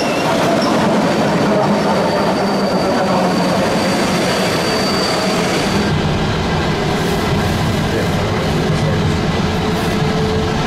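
A train running past on the line, a continuous loud rumble with a thin steady high whine for a few seconds, then a deeper low rumble from about six seconds in.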